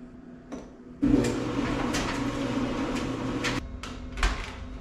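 GE stacked washer/dryer's dryer running with a steady motor hum and drum noise, then cutting off abruptly, followed by a couple of knocks.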